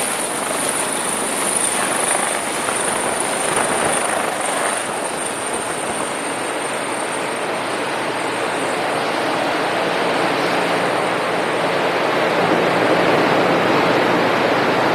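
Helicopter with a high turbine whine that fades away over about ten seconds, over a steady rushing noise.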